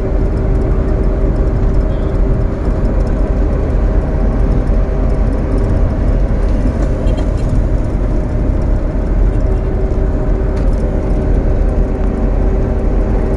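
Steady low rumble of a running vehicle engine with a constant hum, unchanging in level.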